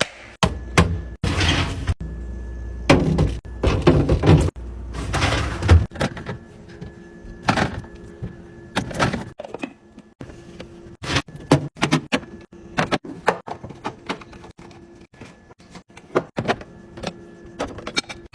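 Handling sounds of fridge organizing: plastic containers, lids and food packaging being set down, clicked and rustled, in a string of sharp clicks and knocks between stretches of rustling. A low hum runs under the first six seconds or so.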